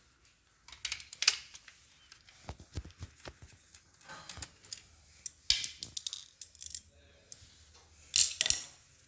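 Irregular clicks and light metallic clinks of small screws, a screwdriver and metal parts being handled while a copier's drive gear assembly is taken apart, with a couple of brief scraping rustles.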